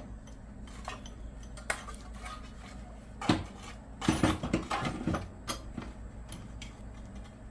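Metal tools and parts clinking and clanking as they are handled: a scattered series of knocks, with a busier run of clatter about four seconds in.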